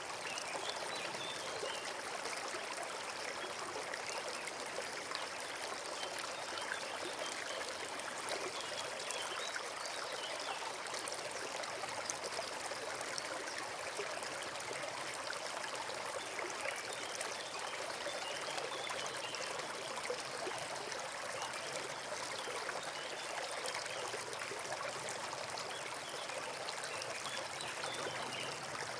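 Small forest stream running steadily, with trickling water.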